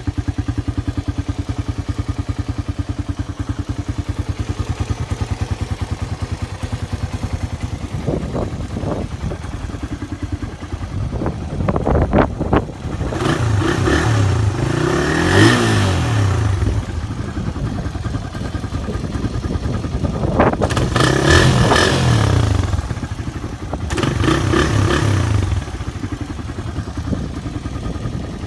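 Suzuki Raider 150 motorcycle engine idling steadily, then revved up and let fall back to idle several times in the second half.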